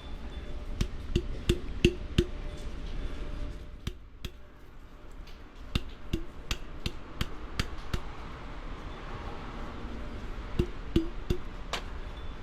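An irregular series of sharp knocks and clinks from cooking utensils against cookware, a few of them briefly ringing.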